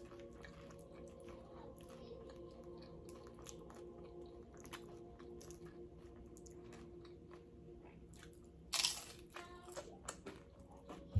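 Close-miked chewing and crunching of tortilla chips, many small crisp crunches, with one louder, longer crunch about nine seconds in. A faint steady hum sits underneath.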